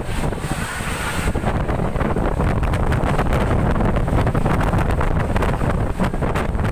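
Strong storm wind blasting the microphone: a loud, continuous rumbling rush.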